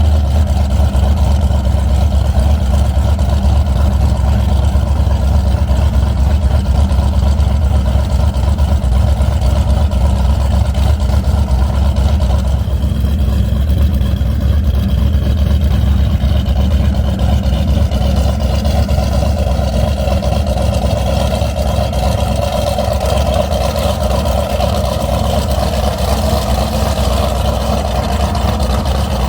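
Boat engine running with a steady low drone. From about halfway, higher tones come in and drift slowly in pitch.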